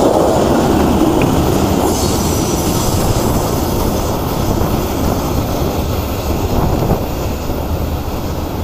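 Freight train's last cars rolling past close by and away: steel wheels rumbling over the rails, slowly fading as the tail end recedes.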